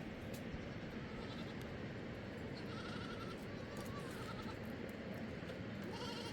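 Sheep or goats bleating several times in short, high calls over a steady rushing noise.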